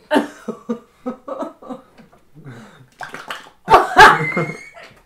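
Noise putty squeezed in its tub, making a string of short, wet, fart-like squelches, some falling in pitch, with two louder ones about four seconds in.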